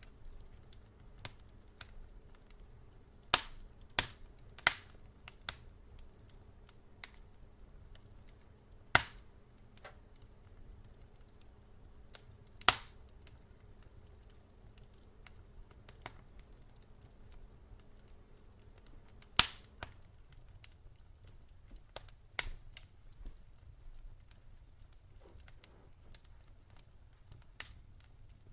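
Campfire crackling: irregular sharp pops and snaps of burning wood, a few much louder than the rest, over a low steady rumble.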